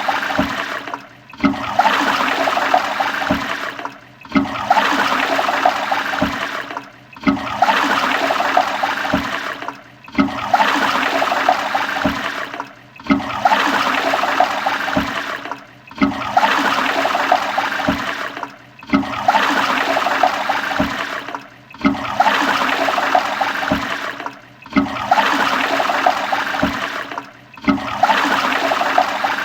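Toilet flushing: a loud rush of water that drops out briefly about every three seconds and starts again, the same short flush repeated over and over.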